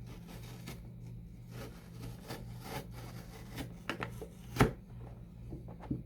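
Knife blade cutting into the top of a cardboard box in short scraping strokes, with a sharp knock about four and a half seconds in.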